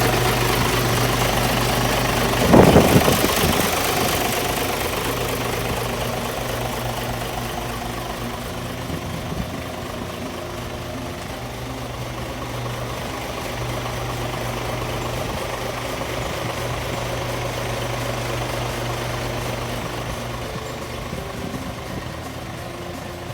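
Isuzu Giga truck's diesel engine idling steadily, with a short loud burst of noise about two and a half seconds in. The idle fades gradually after that.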